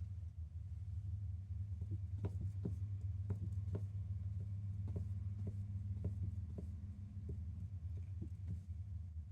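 Black cat purring steadily in a low throb, with faint short clicks now and then.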